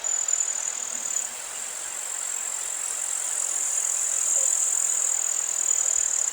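Meadow insects, crickets or grasshoppers, buzzing steadily at a high pitch over a soft hiss of open-air ambience.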